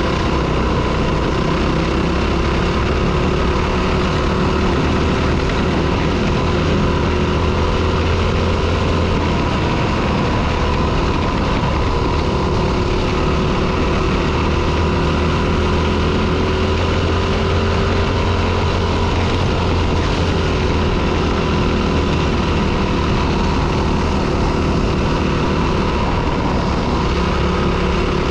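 Four-stroke single-cylinder dirt bike engine running loudly while riding, its pitch holding fairly steady and dipping briefly about a third of the way in and again about two thirds in as the throttle is eased.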